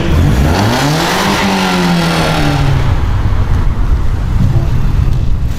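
BMW E36 engine accelerating, its note rising over the first second and a half, holding briefly, then easing off into a lower steady rumble.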